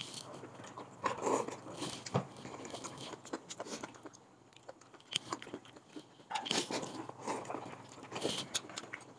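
Close-up eating sounds: chewing and crunching food in irregular bursts, with light clicks of chopsticks against a clay pot.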